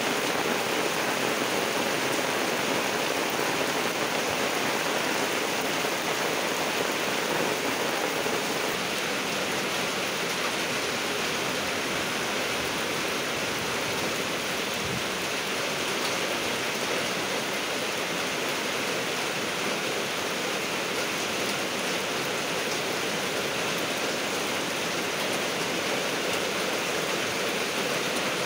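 Heavy rain falling steadily, an even, unbroken rushing noise.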